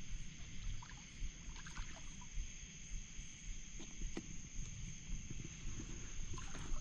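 Steady high-pitched drone of night insects, over a low rumble, with a few faint clicks and taps.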